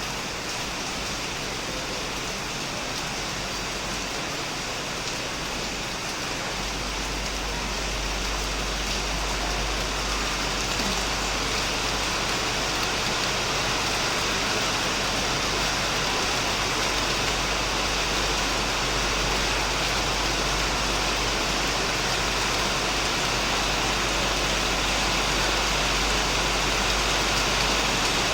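Heavy rain pouring steadily on a shed and plants, a dense even hiss that grows a little louder after about eight seconds. A steady low rumble comes in underneath about six seconds in.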